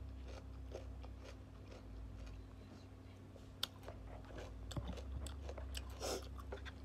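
Close-up chewing of raw cucumber slices, with scattered small crunches over a steady low hum.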